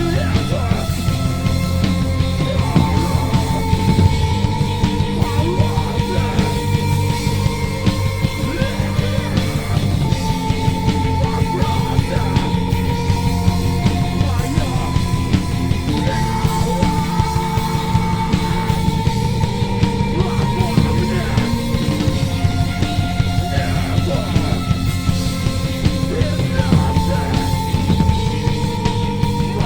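Live heavy rock band playing an instrumental passage: distorted guitars, bass and pounding drums, with a lead line holding long notes.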